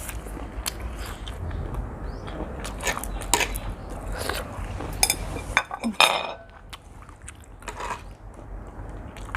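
Someone eating instant noodles: chewing and biting sounds with scattered clicks of utensils against a bowl, and a louder noisy smear about six seconds in.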